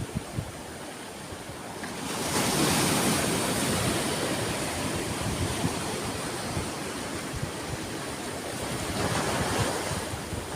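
Ocean waves breaking and washing in: one wave surges about two seconds in and slowly fades, and another swells near the end.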